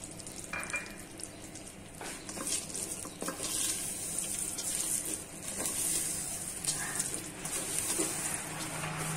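Fine vermicelli frying in ghee in a stainless-steel pot, sizzling steadily while a slotted spoon stirs it, with scattered clicks and scrapes of the spoon against the pot. The vermicelli is being lightly browned.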